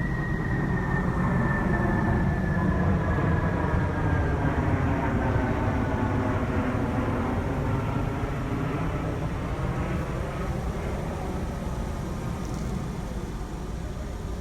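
Loud low rumble of a passing vehicle, with a whining tone that slowly falls in pitch over the first few seconds and then fades.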